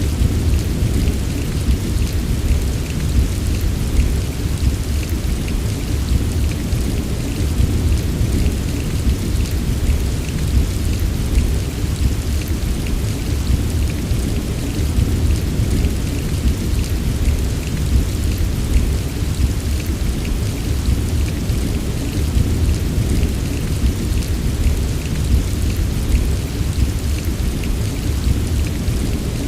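Steady heavy rain, with fine pattering drops over a continuous deep low rumble that does not let up.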